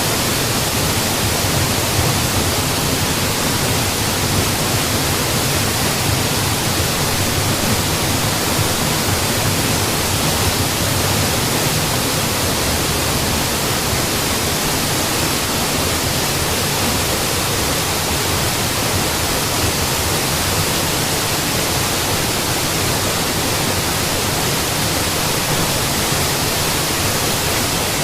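Mountain waterfall: water falling and crashing in a steady, dense, unbroken rush.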